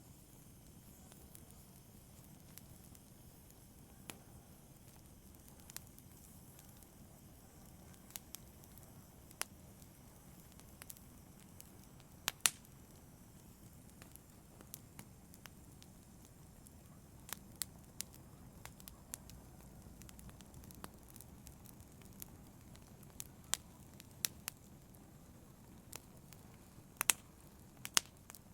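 Wood fire crackling in a fireplace: sharp irregular pops and snaps over a low steady rumble of the flames, with a louder double pop about halfway through and a few more near the end.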